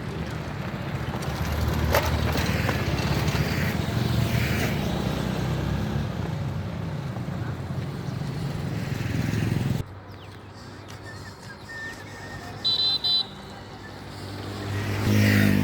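Road traffic with vehicle engines and tyre noise, cutting off abruptly about ten seconds in. Two short high-pitched horn beeps follow, and then a vehicle passes close near the end.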